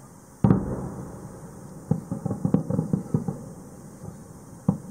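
Aerial firework shells bursting: one loud boom about half a second in that dies away slowly, then a rapid cluster of cracks and bangs over the next second or so, and one more bang near the end.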